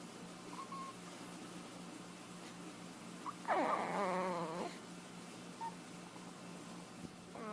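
A baby cooing contentedly: a few faint short squeaks, then one loud drawn-out coo with a wavering pitch about halfway through, and another starting at the very end.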